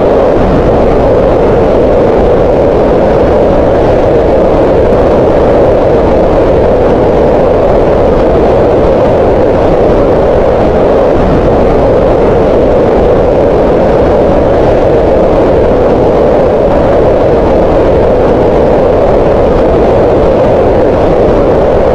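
Green noise: steady, unbroken synthetic noise centred around 500 Hz, with less energy in the low and high ends.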